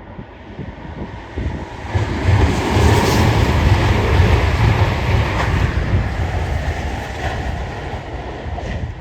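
A train passing close by: a deep rumble and rush of wheels on rails that builds about two seconds in, is loudest through the middle, then fades away.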